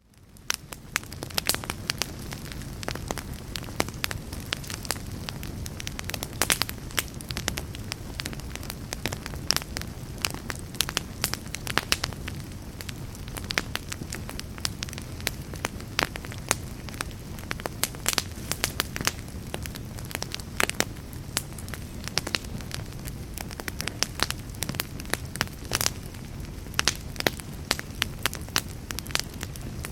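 Wood fire crackling: burning logs snap and pop in frequent sharp cracks over a steady low rumble of flames, fading in over about the first second.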